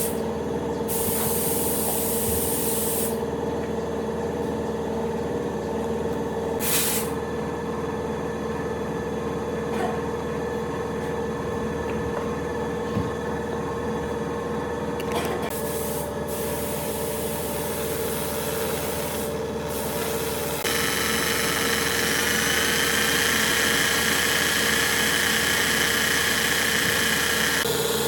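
A machine running steadily with a constant humming tone. About three-quarters of the way in, a louder hiss joins it and runs on.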